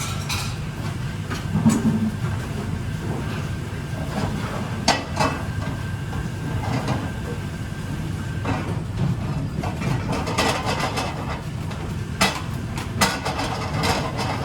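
Restaurant kitchen during service: a steady low background hum with scattered clatters and knocks of dishes, pans and utensils being handled.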